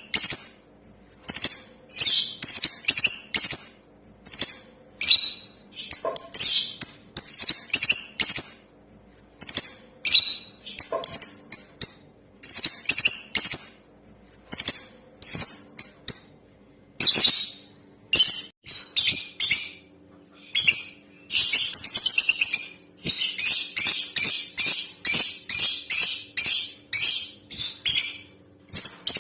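Female lovebird calling in sharp, high chirps that come in short runs with brief pauses between them, then a dense run of rapid chatter lasting several seconds in the second half.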